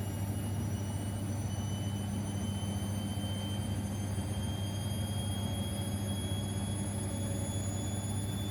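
Siemens Extraklasse XLS 140 A washing machine running mid-cycle on a 90 °C boil wash: a steady hum with a faint high whine that slowly rises in pitch.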